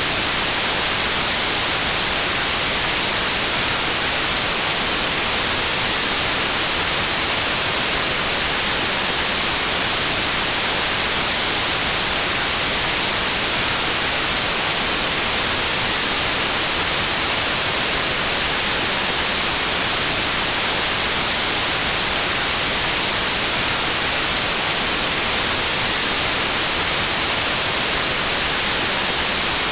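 Steady white noise: an even, unchanging hiss, brightest in the treble, with no drops, waves or other events in it.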